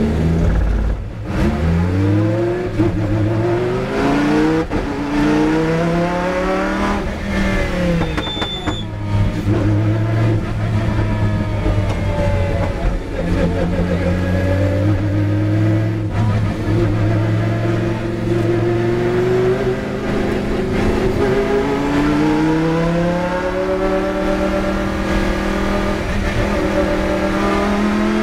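Lamborghini Huracán race car's V10 engine accelerating from a standstill, heard from inside the cockpit: several quick upshifts in the first few seconds, each a rising pitch that drops at the change, then a steadier, lower running through the middle, and rising again under acceleration near the end.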